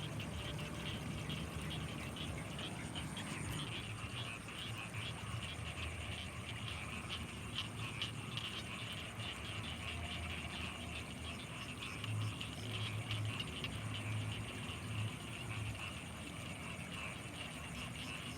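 Night chorus of frogs and insects around rice fields: a dense, steady chirring with a continuous high thin insect whine above it. A few low croaks come in about twelve seconds in.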